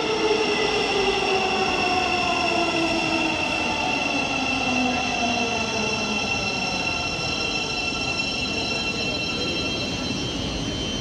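Thameslink Class 700 electric multiple unit pulling into the platform, its traction motor whine falling steadily in pitch as it slows.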